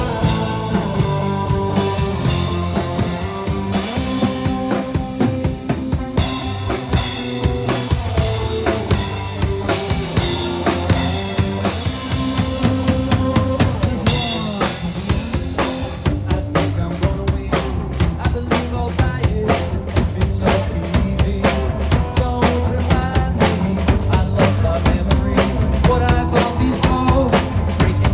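Live band playing a song with the drum kit to the fore: steady bass drum, snare and rimshot hits over held instrumental notes. The drumming gets busier about halfway through.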